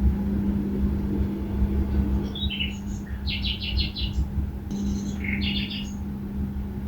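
Small birds chirping in three short phrases, the middle one a quick run of about six repeated high notes, over a steady low hum and rumble.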